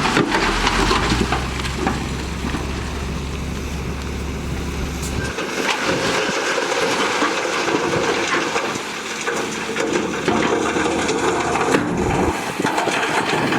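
Heavy earthmoving machinery at work: a diesel engine running under a continuous rattling, scraping noise. A low steady hum drops away about five seconds in.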